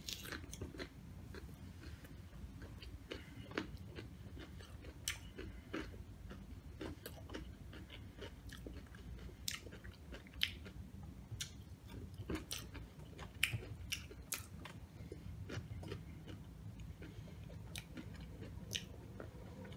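Close-miked chewing of Doritos nachos, with sharp, irregular crunches of tortilla chip about once a second or so.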